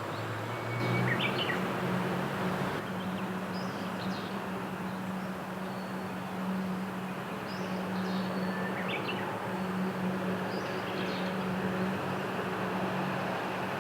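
Steady hiss of rain with scattered short bird chirps over it, and a low steady hum underneath.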